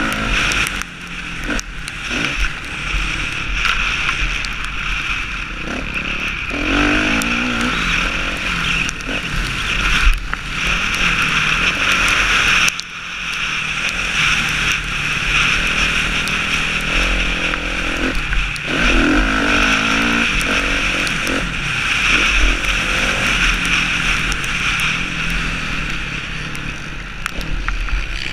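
Motocross bike engine at racing revs, held on the throttle down the straights and cutting back briefly about four times as the rider shuts off and opens up again.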